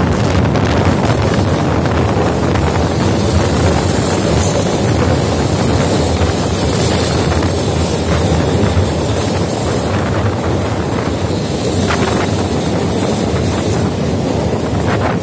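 Passenger train running through a tunnel, heard from an open coach door: a steady, loud rush of wheels on rails with wind buffeting the microphone and a few faint clicks.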